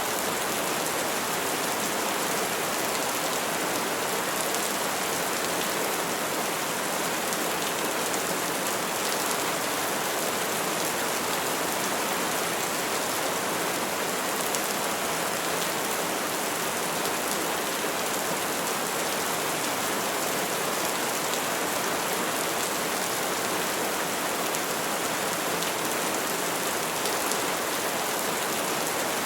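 Steady, even rain falling, a constant hiss of many drops without thunder.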